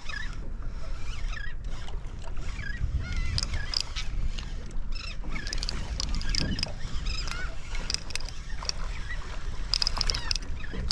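A flock of feeding seabirds calling in many short, scattered cries over a steady low rumble of wind and water.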